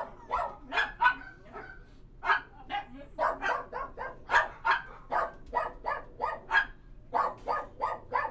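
A dog barking over and over in quick runs, a few barks a second, with short breaks about two seconds in and again near the end.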